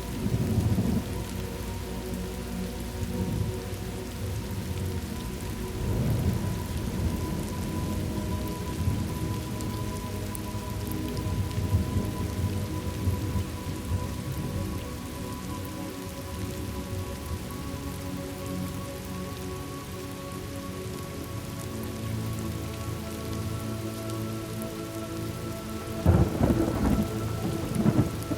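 Thunderstorm ambience: steady rain with thunder rumbling several times, the loudest roll near the end. Faint steady tones hum underneath.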